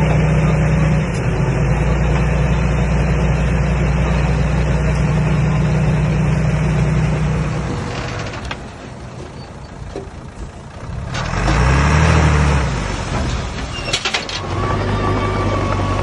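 Komatsu D21A bulldozer's diesel engine running steadily, then falling quieter for a few seconds past the middle. It comes back with a loud rev that rises and falls. A few sharp metallic clanks follow, and then it settles back to a steady run.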